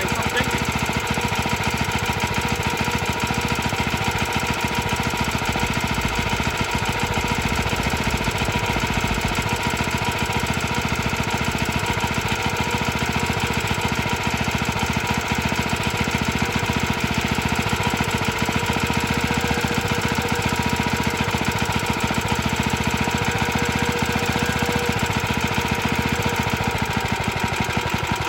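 Early Suffolk Iron Foundry Model 1A small engine running steadily with a fast, rattly firing beat, on a carburettor borrowed from a scrap Suffolk. Its pitch drops slightly near the end.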